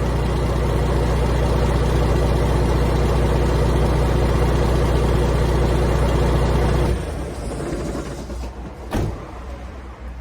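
Cummins diesel engine of a Foden truck running through a straight-pipe exhaust with a deep, steady rumble, then shutting off abruptly about seven seconds in. About two seconds later comes a single sharp knock.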